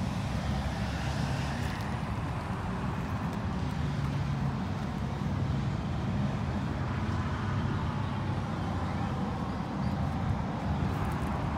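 Dodge Challenger SXT's 3.6-litre V6 idling with a steady low hum.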